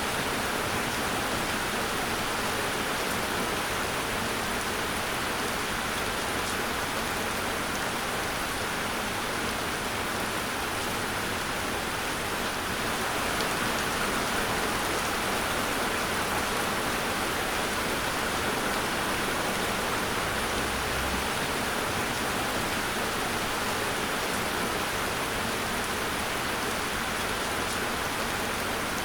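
Steady rain falling, an even hiss of many drops with no distinct events.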